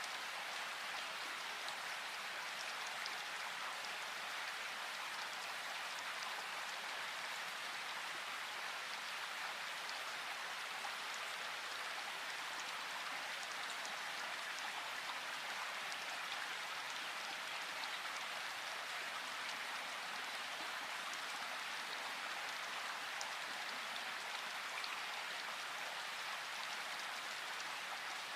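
Steady rain falling: an even, unbroken hiss with scattered sharp ticks of single drops.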